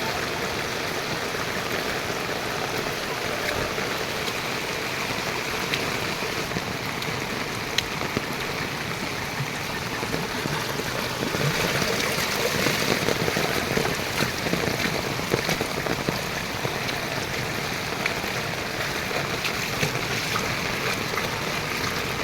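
Steady rush of rainwater, falling and running, with scattered sharp drip ticks; it grows a little louder for a few seconds in the middle.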